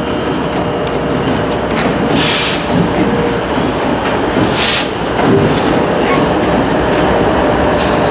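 Freight train moving through a rail yard, a steady loud rumble of locomotive and cars. There are two short bursts of hiss, about two seconds and four and a half seconds in.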